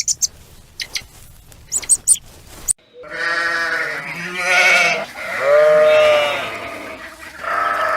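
A farm animal's long, wavering calls, three in a row, after an abrupt cut from a patch of sharp clicks and high chirps.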